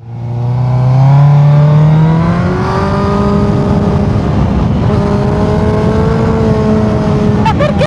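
Suzuki GSX-R1000 inline-four sport motorcycle engine under way with heavy wind rush, its revs climbing over the first two seconds or so, then held fairly steady.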